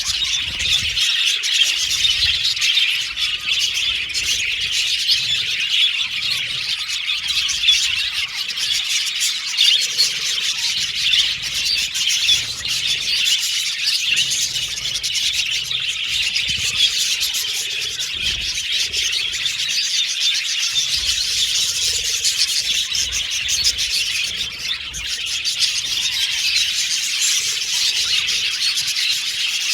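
A flock of budgerigars chattering and chirping together in a dense, unbroken chorus.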